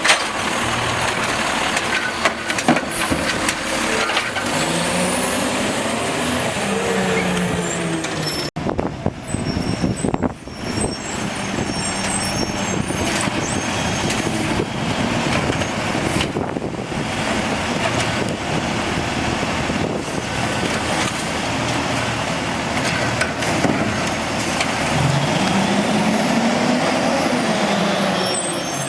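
Automated side-load garbage truck's diesel engine running, revving up and back down twice, with short hisses of air brakes and a few knocks; the sound breaks off abruptly about eight seconds in and picks up again.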